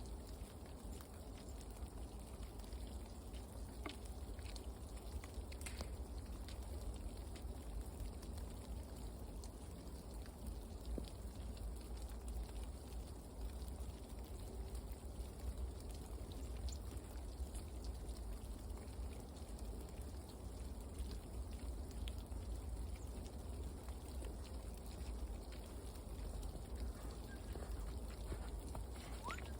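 Outdoor ambience: a steady low rumble with faint, sparse light ticks or taps scattered through it, and a brief faint chirp near the end.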